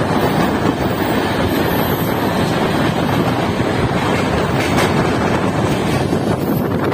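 Steady rush of a passenger train's LHB coach running at speed, wheel-and-rail rumble mixed with wind buffeting the microphone held at an open door or window.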